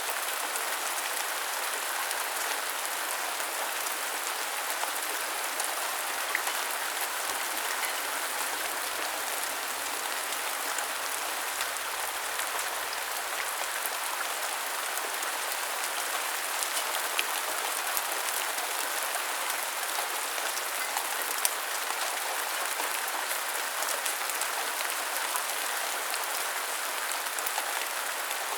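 Steady rain falling and pattering on surfaces, an even hiss with scattered sharper drop ticks.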